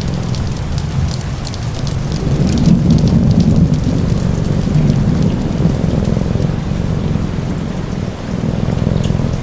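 Steady rain with a deep low rumble underneath that swells about three seconds in, and scattered faint crackles over the top.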